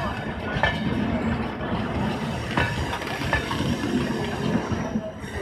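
LHB passenger coaches rolling past on the track, a steady rumble of wheels on rails with a few sharp clanks as the wheels cross the track joints.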